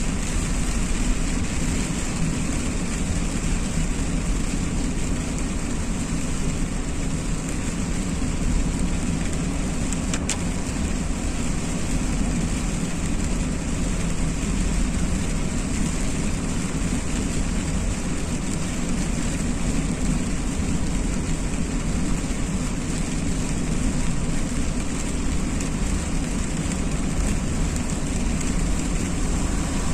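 A car driving on a wet road in the rain: a steady low rumble of engine and tyres under a constant hiss of water and rain.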